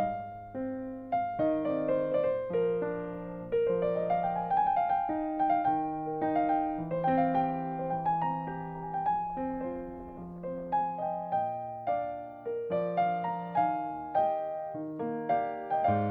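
Background piano music: a slow piece of struck notes and chords, a new note about once or twice a second, each fading away.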